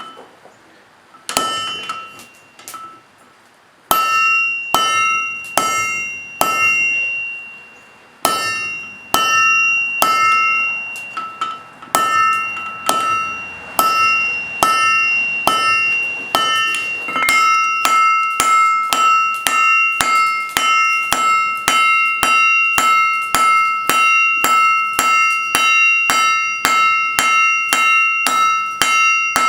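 Forging hammer striking on an anvil, each blow ringing. A few blows at first, then about one a second after a pause, quickening to about two a second from around halfway.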